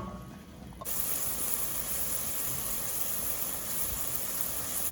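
Ground beef sizzling as it browns in a hot pot, a steady loud hiss that starts suddenly about a second in and cuts off abruptly at the end. A short clink of a utensil on the pot comes first.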